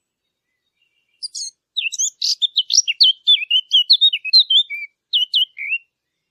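A 'fig bird' (عصفور التين), the small warbler lured by hunters, singing one rapid, varied warbling phrase of quick high notes that lasts about four and a half seconds, starting a little over a second in.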